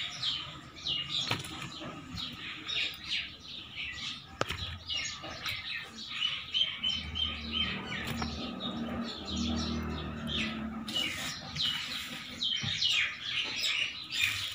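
Small birds chirping busily, many short quick downward chirps in runs throughout, with a few soft knocks among them.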